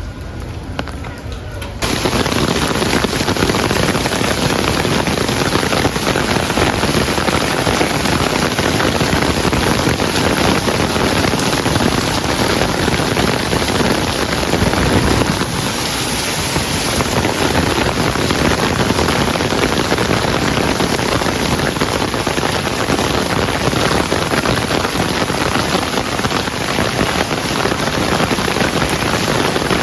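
Heavy rain pouring, a dense steady patter that comes in abruptly about two seconds in after a quieter start.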